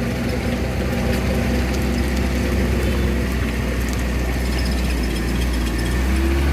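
Truck engine running steadily with a rattling mechanical clatter; its pitch rises slightly near the end.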